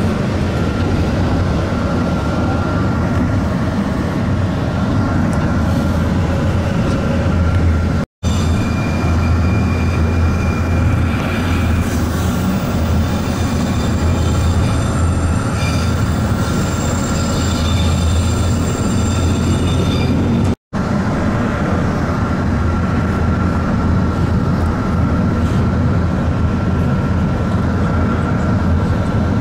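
Steady running rumble of a Stadler BDmh diesel railcar on the Diakopto–Kalavryta rack railway, heard from on board, with thin high wheel squeal coming and going. The sound drops out for an instant twice, at edits.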